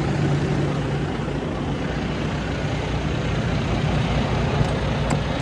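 A vehicle engine running steadily, with a low steady hum that fades out about a second in.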